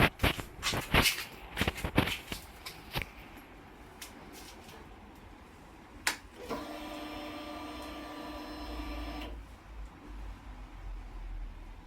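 Several sharp clicks and knocks, then a single click about six seconds in, followed by a steady electric whine that lasts about three seconds and stops. This is a motorcycle's electric fuel pump priming after the ignition is switched on, before the engine is started.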